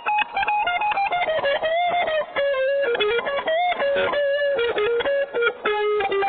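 Budget maple-body guitar played, a melody of separate plucked notes running throughout.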